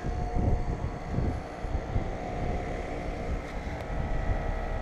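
A bank of outdoor central air conditioner condensing units running: a steady hum of compressors and fans over a low rumble.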